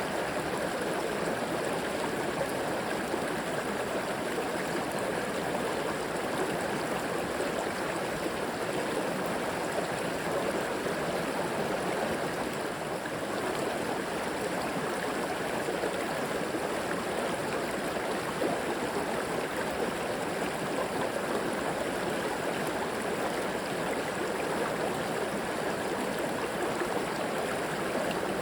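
River water flowing steadily, an even, unchanging sound of moving water.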